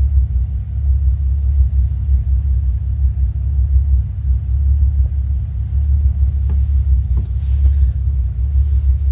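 Nissan Fairlady Z (S30) with a swapped-in 2.8-litre straight-six idling steadily with a deep, even rumble. The new engine is still being run in.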